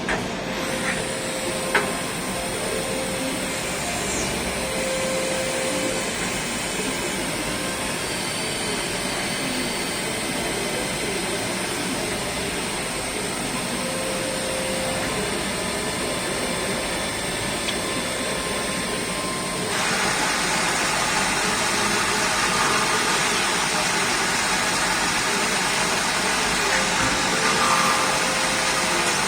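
DMG Sprint 20 Linear CNC lathe running a long-turning cycle: a steady machine noise with faint steady tones, two short clicks near the start, and a step up in loudness about twenty seconds in.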